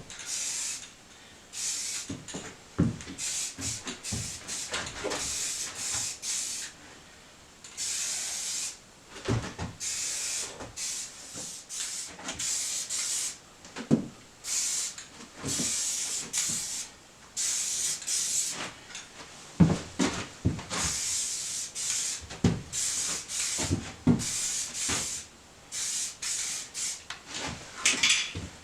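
Aerosol spray paint can spraying in repeated bursts of hiss, each a second or two long, with knocks and clicks in between.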